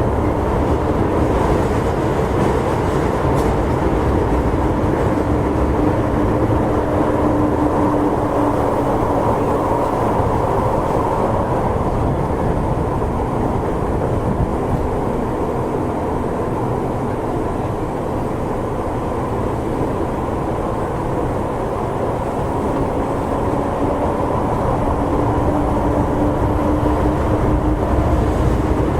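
Running noise inside Toei Shinjuku Line subway car 10-287 travelling through the tunnel: a steady, loud rumble of wheels, track and motors. A humming motor tone sounds at the start and comes back for the last several seconds.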